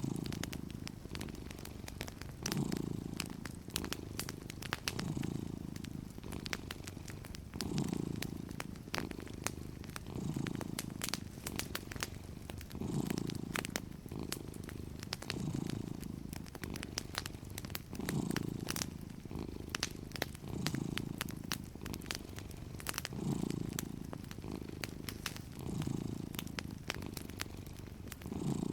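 A cat purring steadily, the purr swelling and easing about every two and a half seconds with its breathing, over a wood fire crackling with frequent small snaps.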